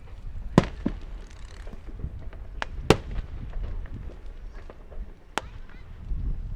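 Fireworks going off: about five sharp bangs at irregular spacing over a steady low rumble, the loudest about half a second in and near the three-second mark.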